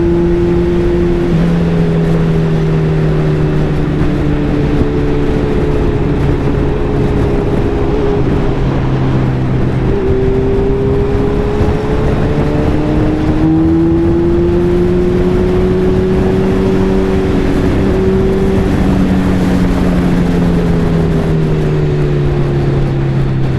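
Suzuki Hayabusa's inline-four engine running while riding, its note rising and falling with throttle and stepping in pitch at a few gear changes, over a steady rush of wind noise.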